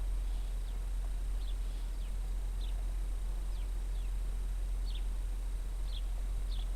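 Small birds at a garden bird feeder giving short, high calls that slide downward, about ten of them at irregular intervals, over a steady low rumble.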